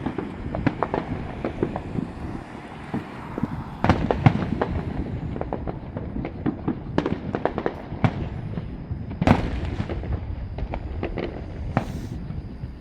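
Fireworks going off in a dense run of pops and bangs, with the loudest booms about four seconds in and about nine seconds in.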